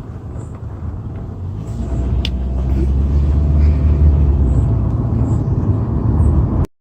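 Low, steady road and engine rumble heard from inside a moving car, growing louder about two seconds in; it cuts off suddenly near the end.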